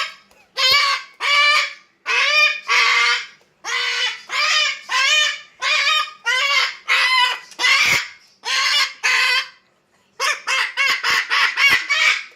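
A pet parrot calling over and over in loud, harsh squawks, about two a second, with a short break about ten seconds in and then a quicker run of calls.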